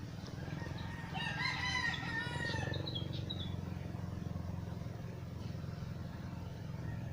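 One long bird call lasting under two seconds, its pitch rising and then falling, over a steady low hum.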